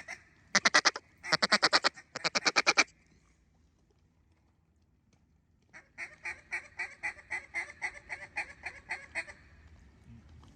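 Mallard duck call: three quick loud bursts of rapid quacks, then after a pause a longer run of about a dozen evenly spaced quacks.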